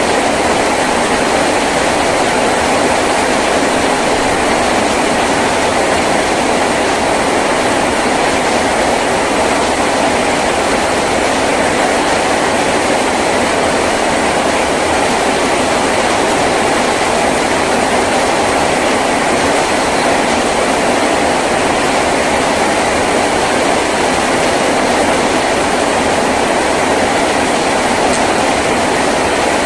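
Heavy rain falling on a tin roof: a steady, even hiss of dense drops.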